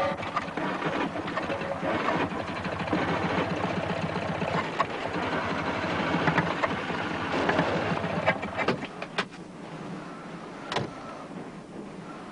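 A fast mechanical rattle, like a small vehicle engine running, that drops away about eight seconds in and leaves a few sharp clicks.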